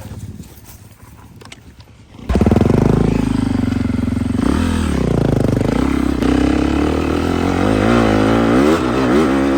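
Four-wheeler (ATV) engine that turns suddenly loud about two seconds in and keeps running hard; its pitch drops briefly, then rises and falls in quick repeated throttle blips near the end.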